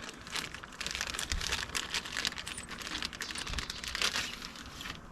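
Crinkling of a plastic hardware bag and small clicks of screws and washers being handled and sorted, an irregular crackle with a slightly louder patch about four seconds in.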